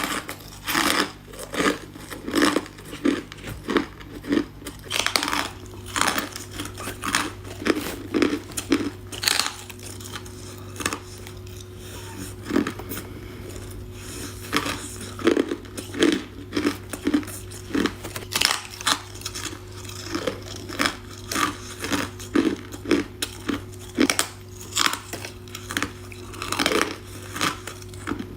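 A person biting and chewing ice cubes close to the microphone: irregular sharp crunches and crackles several times a second, over a faint steady hum.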